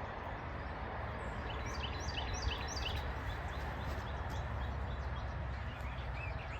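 Small songbird chirping: a quick run of short, high, falling notes a couple of seconds in, then a few scattered chirps, over a steady low rumble.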